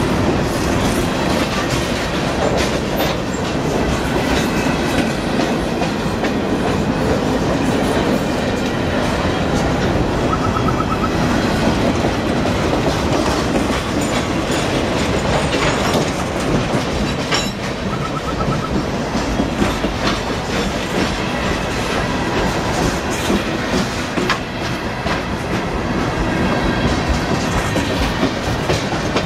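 Freight train's boxcars rolling past, a steady rumble with the wheels clacking over the rail joints.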